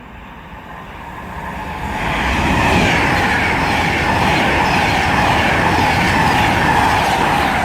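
Virgin Pendolino Class 390 electric train passing through at speed. Its rushing noise builds over the first two seconds, then stays loud with a steady hum over it.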